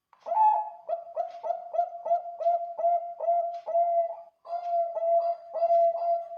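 Zebra dove (Bangkok-bred perkutut) singing its cooing song: a quick run of short, even coos, about three a second, the first pitched a little higher, with a brief break a little past the middle before the run picks up again.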